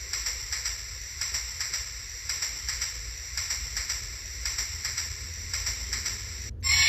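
Steam-locomotive sound effect from a Lionel train watch: a steady hiss with even, rhythmic chuffs, about three a second. Near the end it cuts out and a louder sound with steady tones starts.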